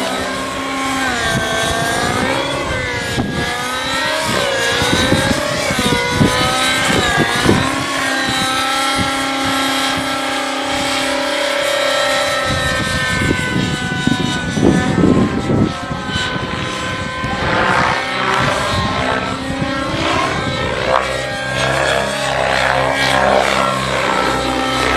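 Nitro-powered Synergy N9 RC helicopter flying aerobatics, its engine and rotor pitch rising and falling over and over as the load changes.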